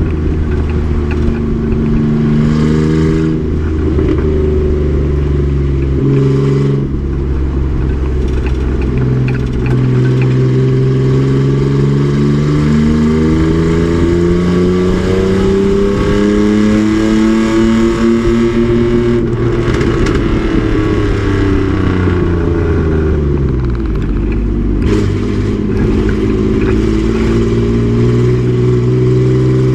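Race truck engine pulling hard on track: its pitch climbs and drops back several times early on as it shifts up, climbs steadily for a long stretch, falls away as it slows, and rises again near the end.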